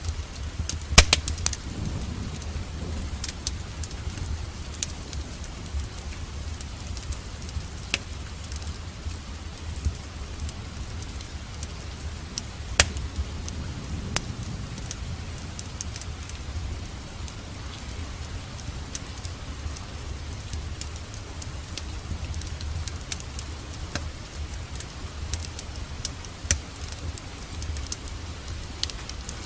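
Steady rain with a wood fire crackling in a fireplace: sharp pops and crackles scattered throughout, the loudest about a second in and near the middle, over a steady low rumble.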